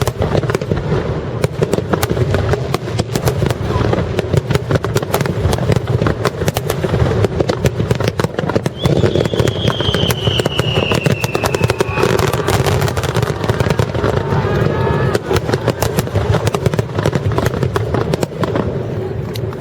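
Fireworks barrage: a starmine firing shells in rapid succession, with dense, continuous crackling and banging. A long whistle falls in pitch from about nine to twelve seconds in.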